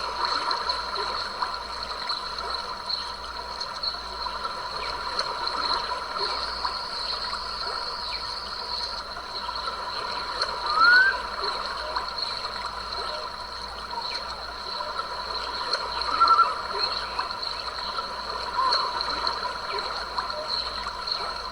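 Creek water trickling and gurgling steadily, with a few short chirping animal calls on top; a quick rising chirp about halfway through and another a few seconds later are the loudest moments.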